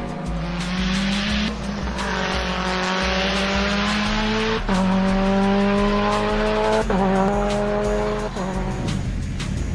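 Shelby GT500's V8 accelerating hard at full throttle, its pitch climbing in each gear and dropping back at each of several quick upshifts.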